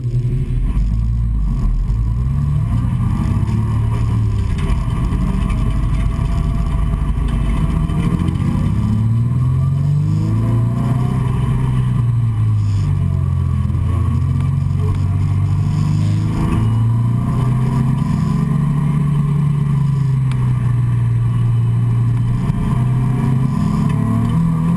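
Nissan 350Z's 3.5-litre V6 heard from inside the cabin, pulling away from a standstill and accelerating. Its pitch climbs and falls back several times as the car gains speed.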